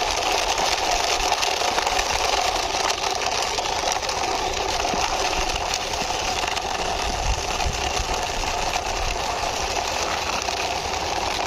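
An engine-like motor drone running steadily and evenly, with no revving, as the toy animal truck is driven along.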